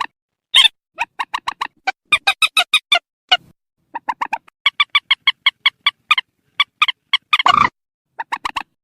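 Swamphen (trích) calling in rapid runs of short, clucking notes, about five a second, in groups broken by brief pauses, with one louder, harsher call near the end. The recording is the kind played through a loudspeaker as a lure for netting the birds at night.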